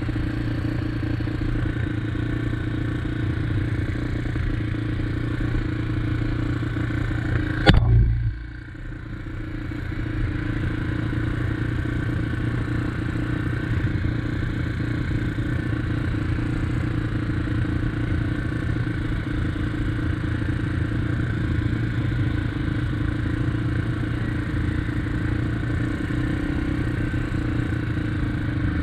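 2021 SSR XF250's single-cylinder engine running steadily at an even pitch. A single sharp knock comes about eight seconds in, followed by a brief drop in level before the engine sound settles back.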